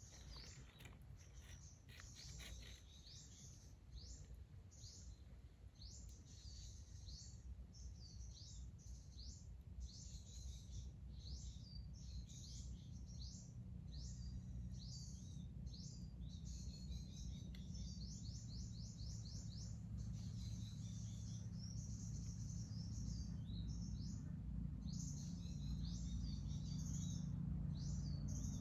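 Small birds chirping and trilling, many short calls one after another, over a low rumbling noise that grows steadily louder.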